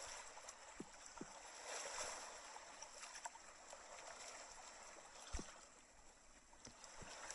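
Faint running water of a stream flowing steadily, with a few soft knocks, the clearest about five seconds in.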